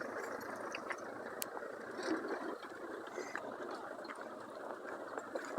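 Off-road 4x4 engine running at low revs as the vehicle crawls up a climb, with scattered sharp clicks and knocks.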